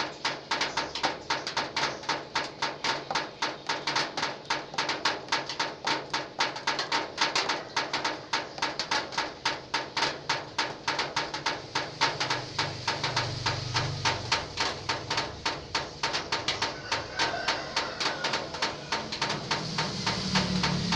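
Rainwater drops falling one after another onto corrugated zinc roof sheeting, making a steady, rhythmic tapping of about three to four drips a second, like a drum beat.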